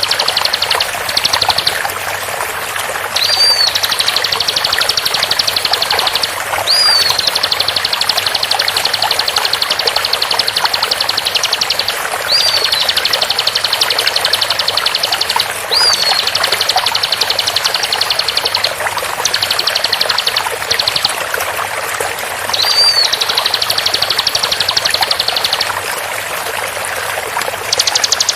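Bar-winged prinia (ciblek) song in long runs of very fast, dense repeated high notes, each run several seconds long and opening with a short rising note, about half a dozen runs in all. Underneath is the steady sound of flowing water.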